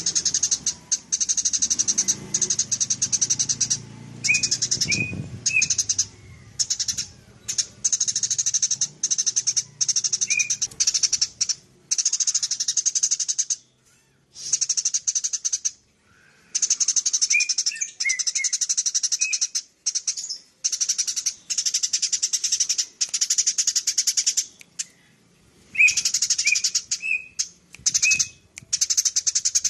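Eurasian tree sparrows chattering non-stop: fast, dense runs of chirps lasting a second or two, broken by brief pauses, with a few short clear whistled notes mixed in.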